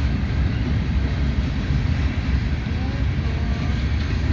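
Freight train rolling past with a steady low rumble, and a few faint squeals from the wheels on the rails.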